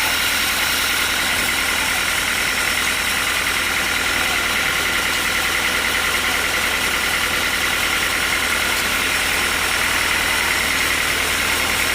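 Sawmill machinery running steadily with a constant low hum and a few steady high tones, with no cutting strokes or changes in load.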